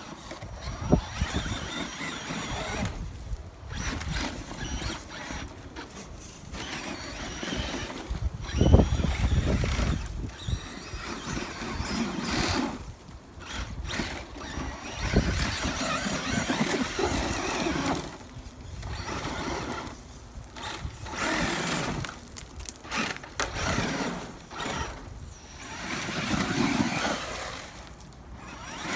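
Electric motor of a Losi LST XXL2-E 1/8-scale RC monster truck whining in repeated throttle bursts, with its tyres churning loose dirt. A heavy thump comes about nine seconds in.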